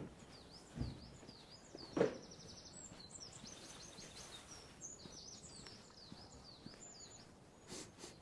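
Small songbirds singing: many high, quick repeated chirps with a rapid trill a few seconds in, over faint background hum. A few footsteps thud on the path near the start.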